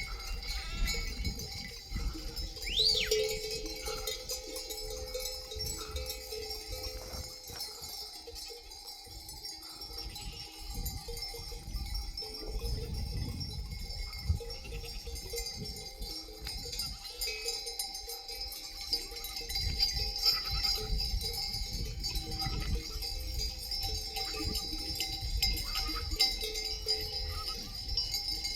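A flock of sheep bleating, with their bells clinking.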